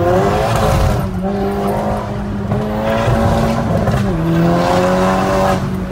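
Tuned turbocharged 2.0-litre four-cylinder of a stage 2 VW Golf 6 GTI Edition 35 under hard acceleration, heard from inside the cabin. The revs climb, the pitch drops sharply about four seconds in as it shifts up, then climbs again.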